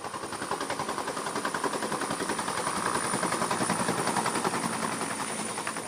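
Sri Lanka Air Force helicopter running, its rotor beating in a fast, steady chop that swells slightly in the middle and eases off toward the end.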